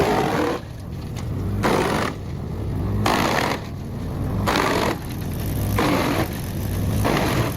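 Large wood chipper running under load, its rough chipping noise swelling and falling back in repeated surges about every second and a half.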